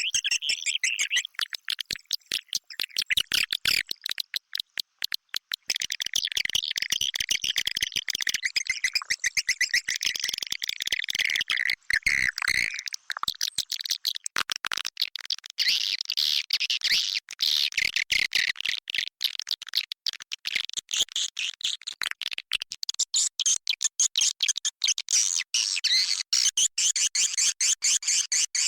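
Swiftlet calling sound used on swiftlet farms to lure birds into a nest house: many edible-nest swiftlets twittering in a dense, unbroken stream of rapid, high chirps, a roosting ('inap') call.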